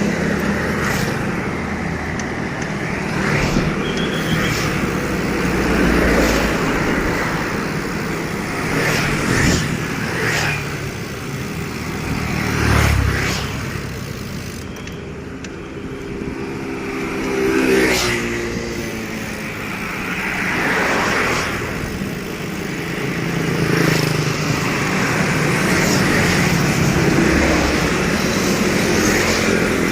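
Road traffic: motor vehicles passing in a series of swells over steady road noise, with one engine rising in pitch as it goes by just past the middle.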